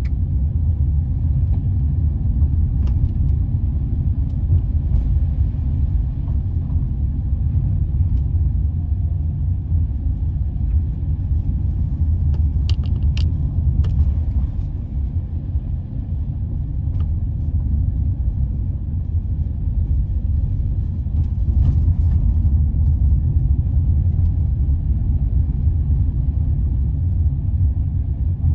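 Steady low rumble of a car on the road, heard from inside the cabin, with a few faint clicks about halfway through and again later.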